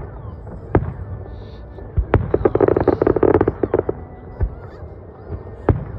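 Distant fireworks: sharp single booms about a second in, about two seconds in and near the end, with a dense run of rapid crackling lasting nearly two seconds in the middle.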